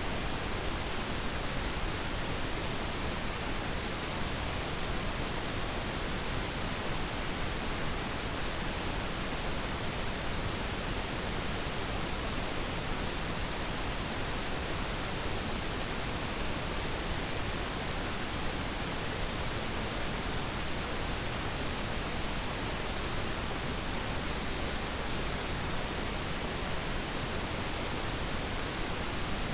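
Steady, unchanging pink noise: an even hiss with no events or changes.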